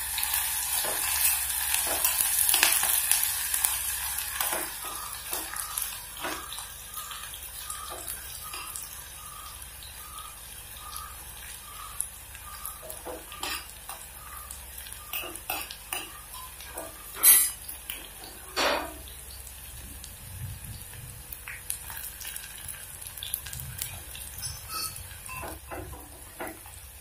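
Shallots and green chillies sizzling in coconut oil in a pot, stirred with a utensil that scrapes and clicks against the pot's sides. This is the sauté stage, the shallots browning. The sizzle is strongest in the first few seconds and then fades, and two louder clinks come a little past halfway.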